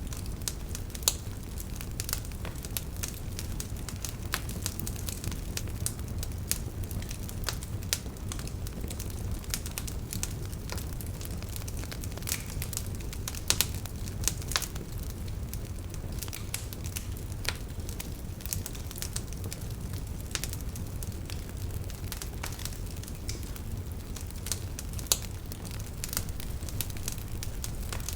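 Wood fire burning, with a steady low rumble and frequent irregular crackles and sharp pops.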